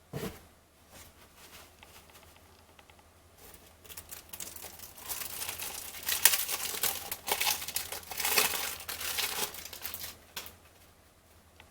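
Cellophane wrapper of a trading-card cello pack being torn open and crinkled, a dense crackling that is loudest from about five to ten seconds in. There is a brief knock at the very start.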